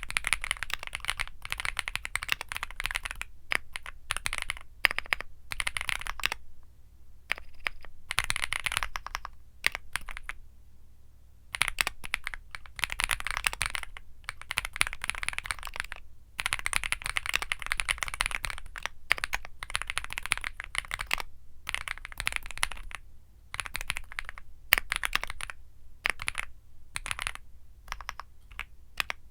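Typing on a Womier SK75 mechanical keyboard fitted with Womier Mint Blizzard switches. Rapid runs of keystroke clicks come in bursts, with brief pauses between them.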